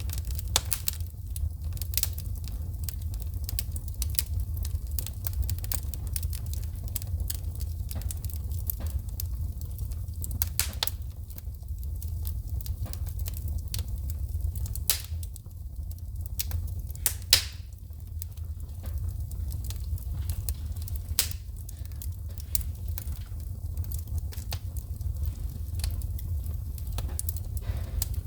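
Wood fire burning in a fireplace: a steady low rumble of the flames under frequent, irregular sharp crackles and pops as the logs shoot sparks, with a few louder pops among them.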